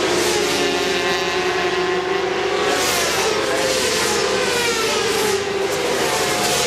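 Several 400 cc supersport racing motorcycles running at high revs, their engine notes overlapping and rising and falling in pitch as the bikes pass.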